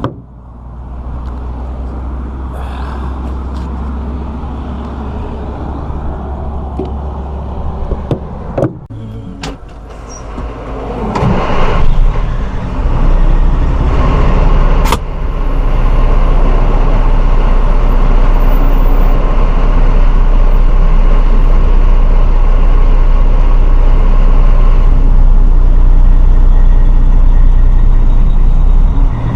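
Detroit Series 60 12.7-litre diesel in a 1997 Peterbilt 378 running steadily. It grows much louder about eleven to twelve seconds in and then holds a steady low drone, with a few sharp clicks or knocks before the rise and one near the middle.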